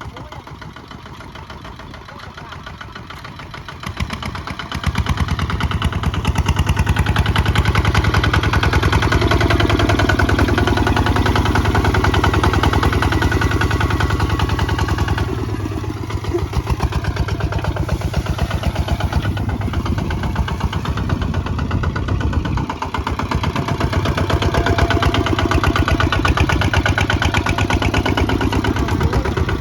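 Kubota ZT155 single-cylinder diesel engine running with a rapid steady pulse, picking up speed and getting louder about four seconds in, then running fast with a couple of brief dips.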